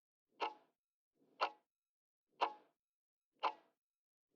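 Clock-ticking sound effect, four faint ticks about a second apart, counting down the answer time of a quiz.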